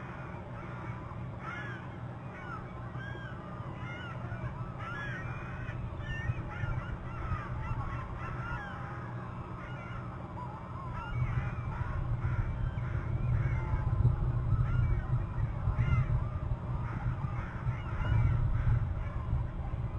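Wild birds calling around the nest: many short chirping calls scattered all through, over a steady low rumble that grows louder about halfway in.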